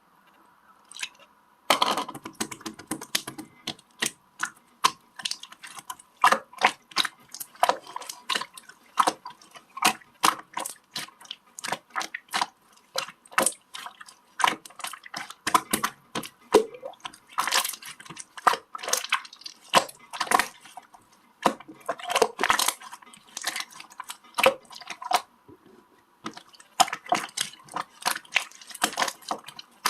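Slime being squeezed and pressed by hand, making a steady run of sharp wet clicks and pops, several a second, starting about two seconds in.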